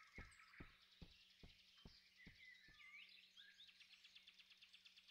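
Near silence with faint forest ambience: small birds chirping, with soft ticks about two and a half a second that fade out about two seconds in.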